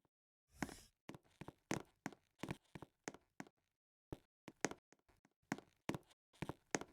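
A run of irregular knocks and taps, about two to three a second, each short and sharp with dead silence between.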